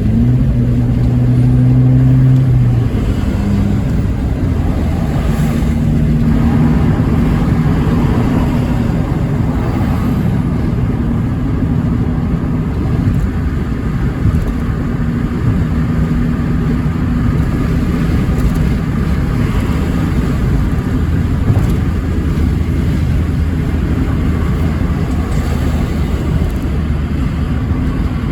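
Abarth 500C esseesse's turbocharged 1.4-litre four-cylinder engine running hard, loud and continuous. Its note holds fairly steady pitches that change in steps a few times.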